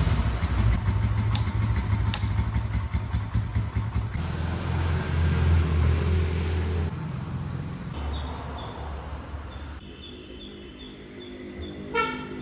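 Small single-cylinder motorcycle engine of a Hero Honda Splendor running at changing speeds. It is loudest around the middle and dies down over the last few seconds, with a brief sharp sound near the end.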